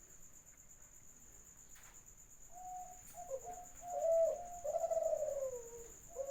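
A dove cooing: a few short low coo notes from about two and a half seconds in, running into a longer coo that falls in pitch, with the next phrase starting at the very end.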